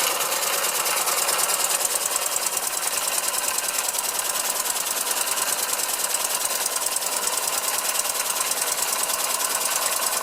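Small 1912 hand-built oscillating model engine running on compressed air, driving a line shaft and belt-driven Wilesco tinplate toys: a rapid, even mechanical clatter.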